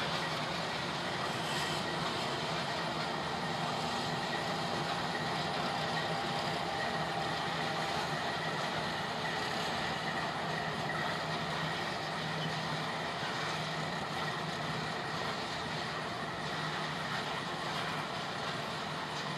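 A CSX freight train passing: a diesel locomotive goes by at the start, then a string of hopper cars rolls past with a steady, continuous noise of wheels on the rails.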